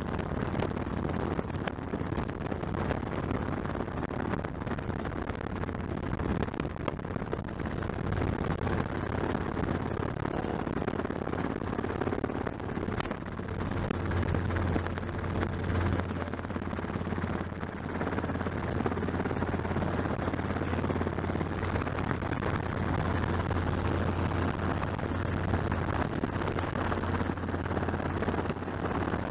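Helicopter in flight: steady rotor chop and engine noise, with a strong low hum throughout.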